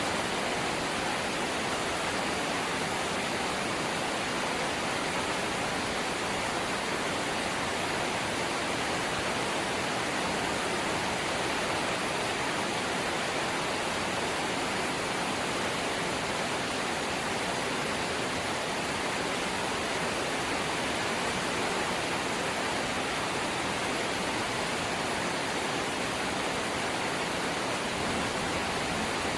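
Light rain falling steadily, an even hiss with no single drops or gusts standing out.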